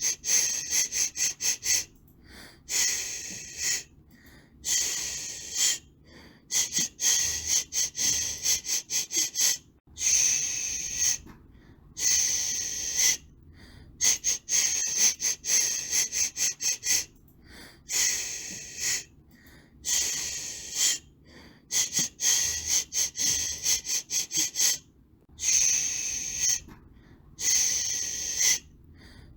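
A person shushing, 'shh' hisses made to soothe a baby, in bursts of a second or two with short gaps between them; some bursts are broken into quick pulses.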